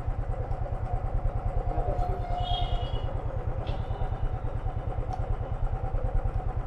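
Royal Enfield Thunderbird 500's single-cylinder engine idling steadily with an even, fast low thump.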